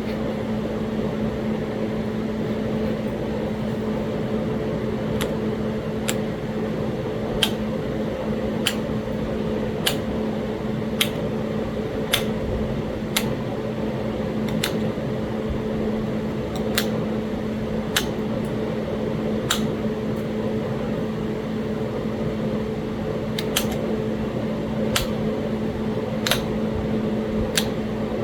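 Hammerstone striking the edge of a Talahata quartzite preform during biface reduction: sharp clicks about one a second, with a pause of a few seconds past the middle. A fan hums steadily underneath.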